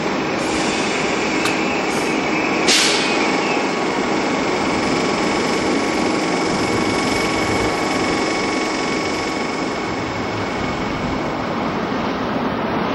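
Royal Mail train of red mail vans running past along the platform, a steady rushing rumble of wheels on rail with a faint steady whine. A couple of clicks come between one and two seconds in, and a short sharp hiss about three seconds in.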